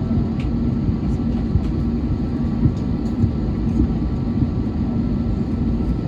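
Cabin noise inside an Airbus A321neo on the ground: a steady low rumble of the engines with a constant hum, and a few light knocks.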